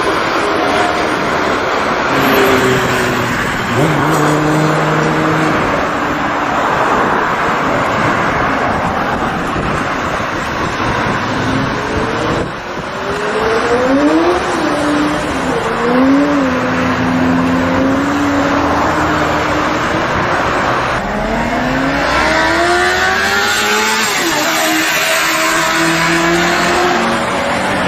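Inline-four sportbike engines accelerating under heavy wind and road noise. The engine note climbs and drops through quick gear changes around the middle, and near the end it makes one long rising rev.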